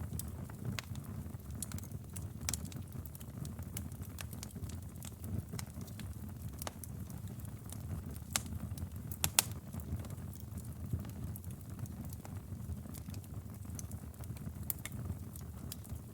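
Wood fire crackling in a fireplace: a steady low rumble of flames with scattered sharp pops and snaps, the loudest a quick double pop about nine seconds in.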